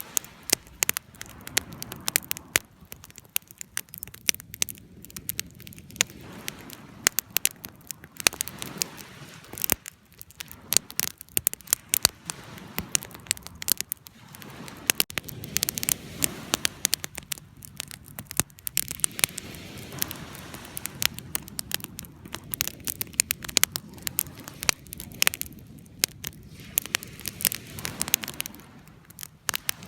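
Wood fire crackling: irregular sharp pops and snaps over a low, soft rumble of burning that swells and fades.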